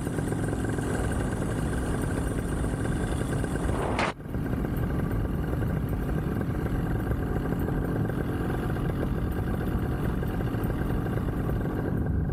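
Vittorazi Moster 185 single-cylinder two-stroke paramotor engine idling steadily in flight, with a brief sharp click and momentary dropout about four seconds in.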